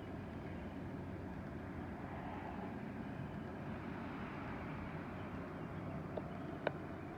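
Steady outdoor ambience in a garden after rain: a low, even hiss and rumble that swells a little in the middle, with two short clicks near the end.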